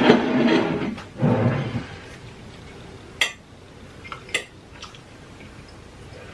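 A short voiced sound, loudest in the first two seconds, followed by a few sharp clinks of dishes and cutlery.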